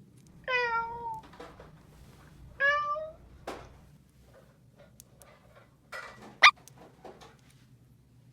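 Two short meows, each about half a second long, followed by scattered light taps and clicks and one sharp loud click about six and a half seconds in.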